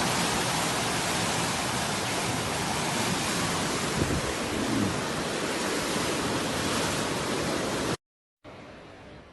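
Loud, steady rush of floodwater, a dense even roar of water that cuts off suddenly about eight seconds in, leaving a much fainter hiss.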